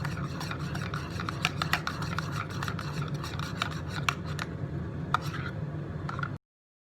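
Rubbing and scraping in a kitchen with many small sharp clicks, over a steady low hum; it cuts off suddenly near the end.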